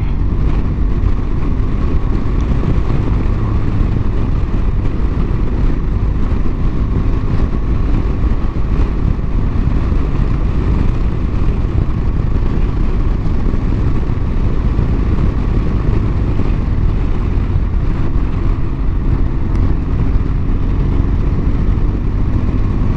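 Steady wind rush on the microphone over the drone of a BMW R 1200 GS boxer-twin engine and tyres at cruising speed on the open road.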